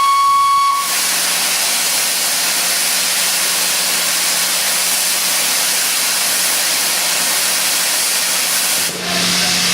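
A steam whistle note cuts off under a second in. Then comes a steady loud hiss of steam from 60163 Tornado, a Peppercorn A1 Pacific steam locomotive, with a low steady hum under it.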